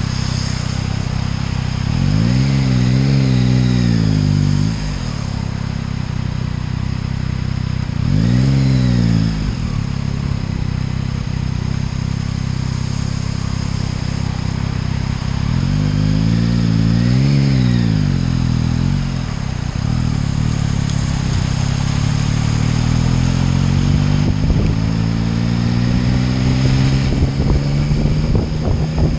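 Motorcycle engine under way over steady wind and road noise, its pitch rising and falling three times as the throttle is opened and closed, then climbing slowly over the last several seconds.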